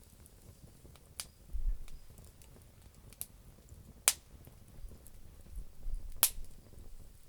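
Campfire of damp firewood crackling, with a few sharp pops, the loudest about four seconds in and another strong one about two seconds later, over low rumbling.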